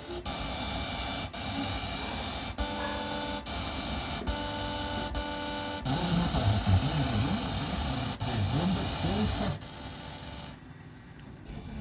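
FM radio broadcast played through a 2.1 home-audio amplifier and its speakers, with heavy reception hiss broken by brief dropouts. A short electronic tone sounds twice, about two and a half and four seconds in.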